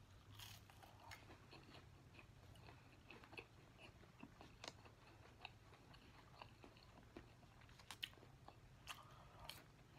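Faint close-miked chewing of a McDonald's Chicken McNugget: soft mouth sounds with many small scattered crunchy clicks, a few sharper ones near the end.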